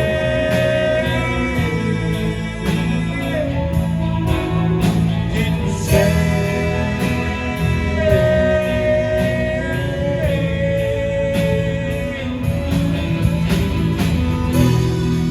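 Live band playing a slow country ballad through an instrumental break: a lead guitar holds and bends long notes over bass and drums, with a steady cymbal tick about twice a second.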